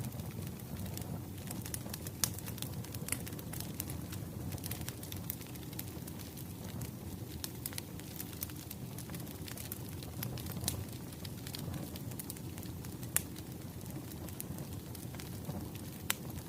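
Wood fire crackling: irregular sharp pops and snaps of burning firewood over a low, steady rumble of the flames.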